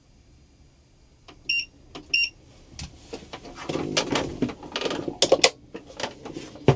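Two short electronic beeps about half a second apart, like an appliance's button presses. They are followed by a busy run of clicks, knocks and clatter as objects are handled.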